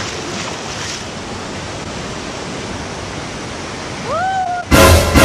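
Steady rush of river water and a waterfall, with splashing from a swimmer kicking up spray. Near the end comes a short rising cry, then loud music cuts in suddenly.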